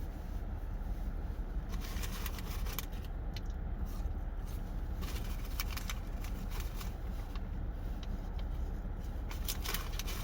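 Eating noises: rustling and crinkling of fast-food packaging, with chewing, in a few short bursts over a steady low hum.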